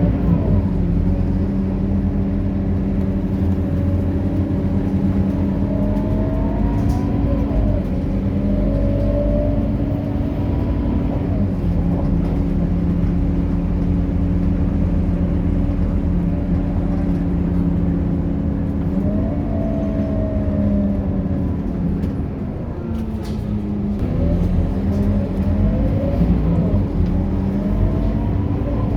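Scania K230UB city bus's engine and driveline running through stop-start driving. A whine climbs in pitch as the bus accelerates and drops back at each gear change. The bus eases off about two-thirds of the way in, then pulls away again.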